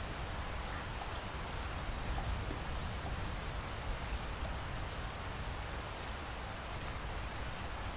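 Steady rain falling, an even hiss of drops with a low rumble underneath and a few faint individual drop ticks.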